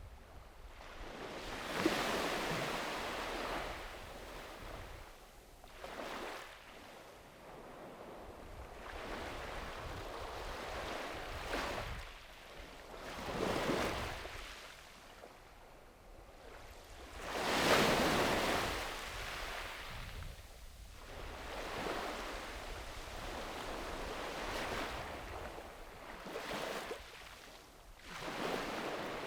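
Small sea waves breaking and washing up a sandy beach, each swell of surf rising and fading every few seconds, the biggest about two seconds in and past halfway, with some wind on the microphone.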